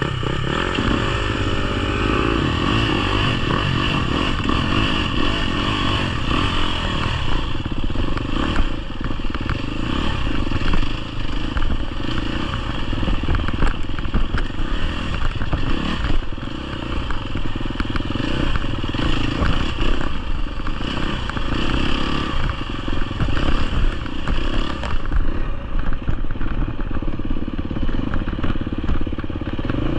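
GasGas EX250F's 250cc four-stroke single-cylinder engine running as the dirt bike is ridden along a trail, revs rising and falling, with frequent clattering knocks.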